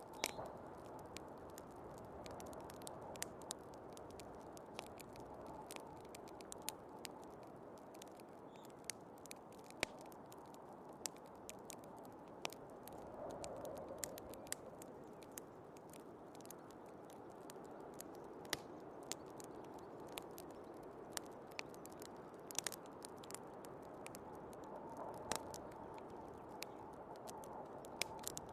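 Wood fire crackling, with frequent irregular sharp pops, over the steady rush of a snowstorm's wind.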